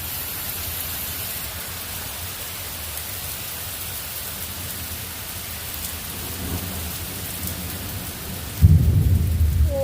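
Thunderstorm: steady rain with a low rumble of thunder, then a sudden loud thunderclap near the end.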